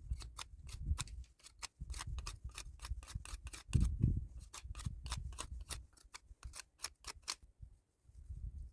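A rapid series of sharp clicks, about four a second, over low handling thumps, stopping shortly before the end.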